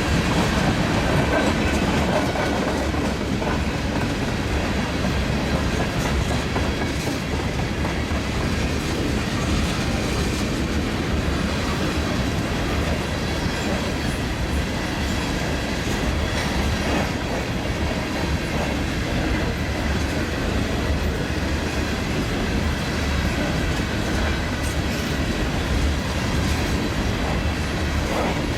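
Empty tank cars of a freight train rolling steadily past, wheels clicking over the rail joints under a continuous rumble.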